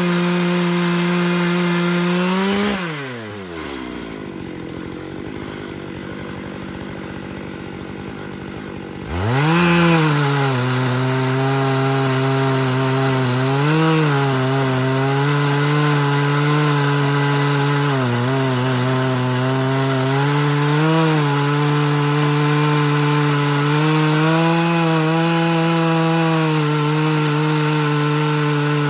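Chainsaw on a chainsaw mill ripping through a live oak log at full throttle. About two and a half seconds in the engine drops to a low idle for several seconds, then revs back up and runs steadily under load, its pitch dipping now and then as the chain bogs in the tough wood.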